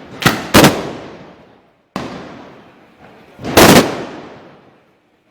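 Black-powder arquebus shots fired one after another: two blasts close together near the start, another about two seconds in, and the loudest about three and a half seconds in, each dying away in a long echo.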